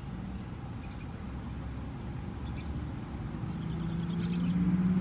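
Distant outdoor warning sirens starting up over a steady background rumble. A low steady tone grows louder from about three seconds in, and near the end a siren begins winding up, its pitch rising.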